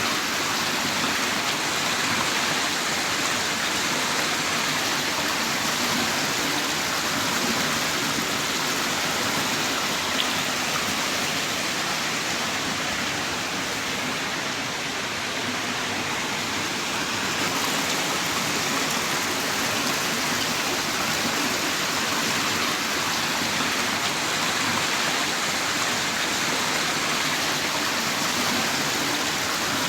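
Heavy rain falling in a steady downpour, an even hiss of water.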